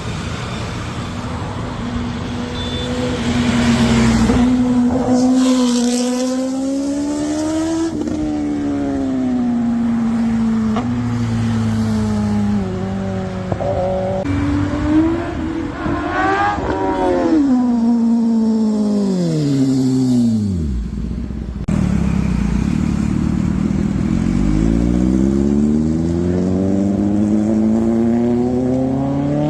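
Kawasaki ZX-10R inline-four superbike engine at high revs, passing by at speed: its pitch rises, falls away steeply as it goes past a little past halfway, then climbs again as it accelerates hard.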